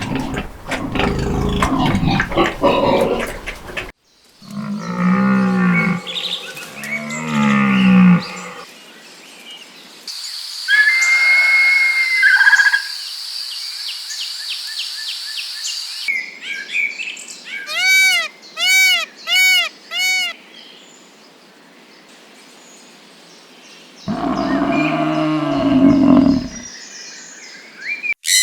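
A string of separate farm-animal calls cut one after another. Two deep lowing calls come a few seconds in and another near the end, typical of cattle mooing. Between them are a higher, bird-like call and then four short calls repeated in quick succession.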